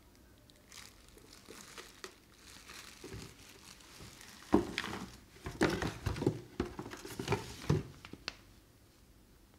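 Packaging crinkling and rustling as it is handled during unboxing, in irregular bursts that grow busier and louder about halfway through, then stop near the end.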